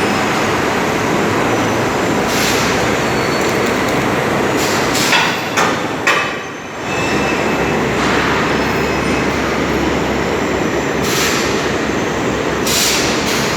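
Forklift running loudly under load while lifting a heavy engine, with a few sharp metal clanks about five to six seconds in.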